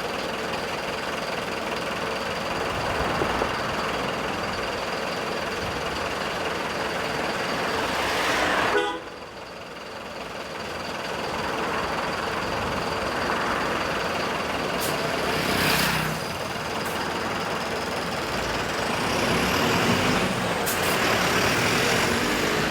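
Large road vehicle running steadily, with a horn tooting. The sound drops off abruptly about nine seconds in and then continues.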